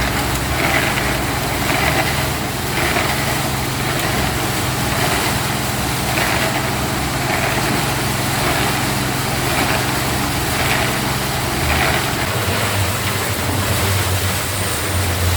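Small engine running steadily, its pitch dropping about twelve seconds in, with a rasping noise that repeats roughly once a second.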